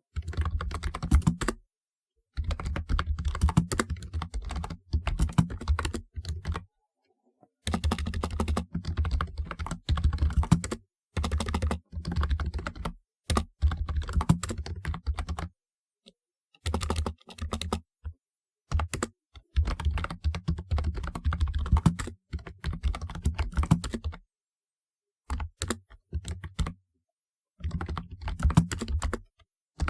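Typing on a typewriter-style keyboard: rapid key clicks in runs of one to three seconds, separated by short pauses.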